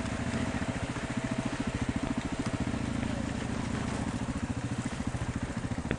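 Motorcycle engine running at low revs with a rapid, even pulse, over a steady hiss.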